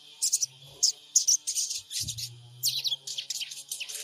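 Sogon bird giving a rapid series of short, high-pitched chirps and twittering notes, some as quick falling sweeps, used as a lure call to provoke other sogon to respond. A low steady hum comes in twice beneath it.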